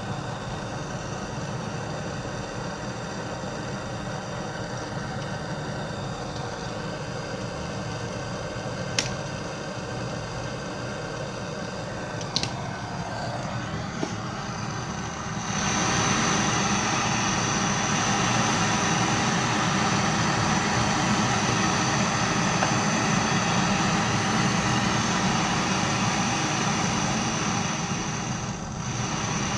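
Vacuum pump running steadily, evacuating the refrigerator's sealed system before gas charging. It gets louder about halfway through, and there are a few light clicks before that.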